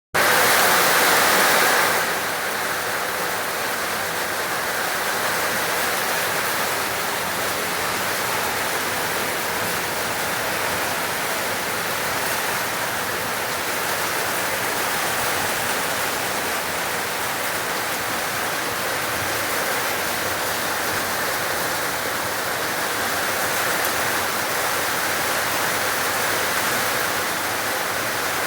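Heavy rain falling steadily, a dense even hiss, somewhat louder for the first couple of seconds.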